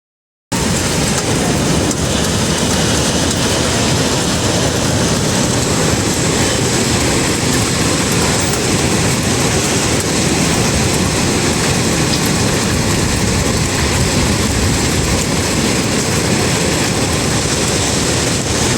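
Steady roar of hurricane wind and heavy rain, starting abruptly about half a second in.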